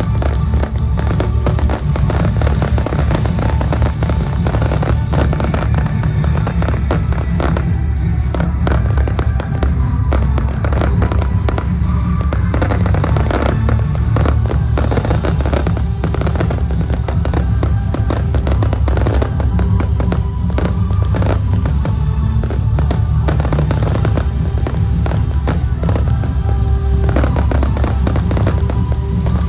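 Fireworks display going off in a dense, unbroken run of bangs and crackles, with music playing along.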